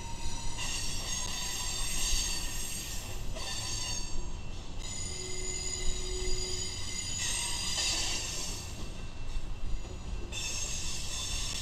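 A slow freight train's diesel locomotives rolling past with a steady low rumble, their wheels squealing on the rails in several high, shifting tones.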